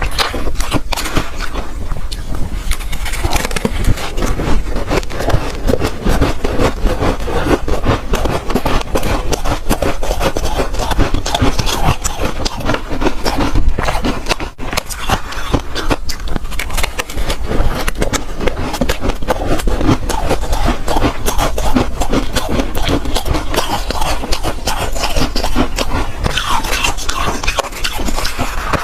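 Close-miked chewing and crunching of soft ice, a dense, continuous run of crackly crunches.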